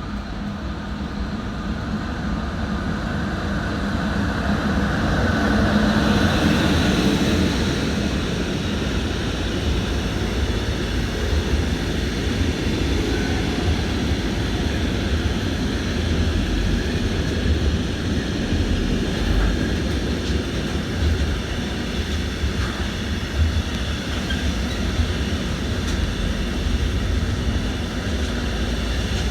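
Train running through the station: a rumble that builds over the first six seconds, with a brief whine at its loudest, then carries on steadily.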